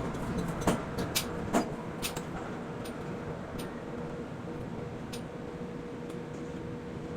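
Container port machinery at quay-crane work running steadily with a faint constant hum, broken by sharp knocks, several in the first two seconds and a few fainter ones later.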